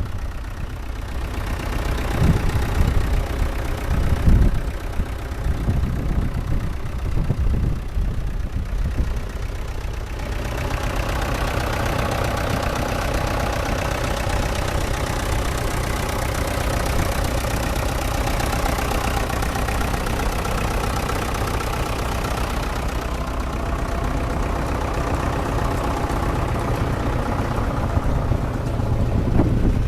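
A vintage engine running steadily at idle, with irregular low thumps in the first third; about a third of the way in the engine becomes louder and fuller and stays steady.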